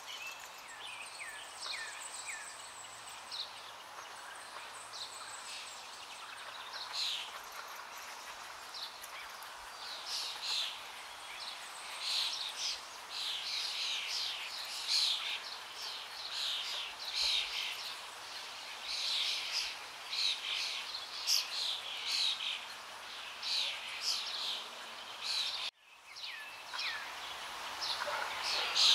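Many small birds chirping outdoors: a dense run of short, quick, downward-sliding calls over a steady background hiss, busiest through the middle, breaking off for a moment near the end.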